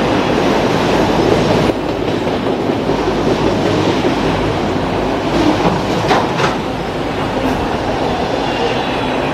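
Freight cars of a CSX mixed freight train rolling past, their wheels clattering steadily over the rails.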